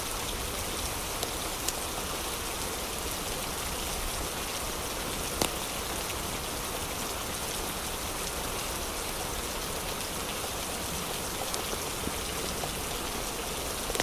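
Steady rain falling, with a few sharper drop hits standing out now and then, the loudest about five seconds in.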